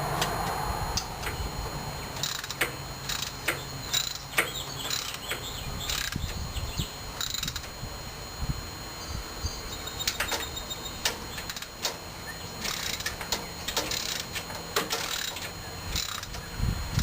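Hand tools working on a riding mower's metal parts: scattered sharp clicks and short runs of rapid clicking, irregularly spaced.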